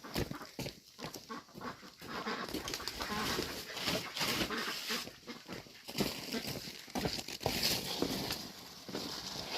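Farm animals making noise, mixed with irregular clicks, knocks and rustling.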